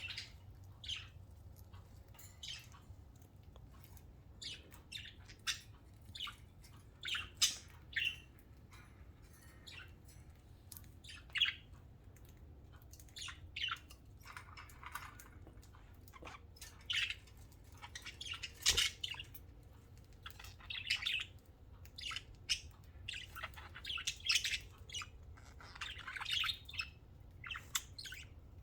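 Pet budgerigars chirping in short, scattered calls, several every few seconds and some louder than others, over a steady low hum.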